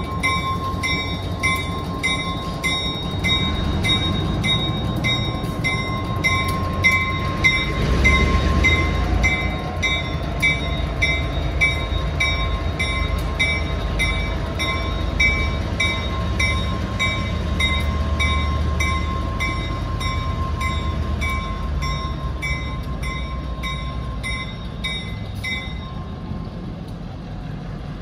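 Grade-crossing bell ringing about twice a second over the low rumble of two EMD GP15-1 diesel locomotives and freight cars rolling through the crossing. The bell stops near the end.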